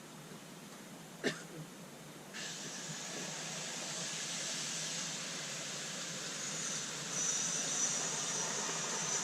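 Gas being filled from a can into a live-steam model locomotive's gas tank: a sharp click as the nozzle presses onto the filler, then a steady hiss of gas from about two seconds in. About seven seconds in the hiss gets louder with a thin high whistle-like edge, as the tank starts to spit and spray gas out the sides of the filling jet: the sign that it is full.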